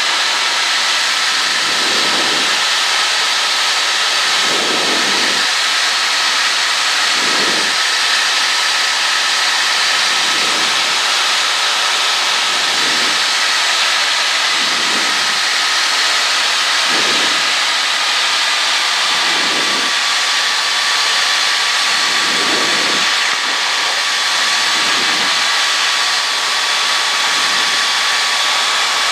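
Cessna 152's four-cylinder Lycoming engine and propeller droning steadily in cruise, heard in the cabin as a loud, even hiss with a high whine that drops slightly in pitch a little past halfway. Faint low swells come about every two and a half seconds.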